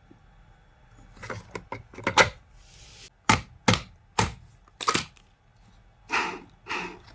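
Sharp clicks and knocks of small hard parts being handled, with a few clicks early, four strong knocks in the middle, then two short scraping rasps near the end.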